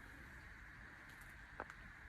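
Near silence: faint steady background hiss, with one small click about one and a half seconds in.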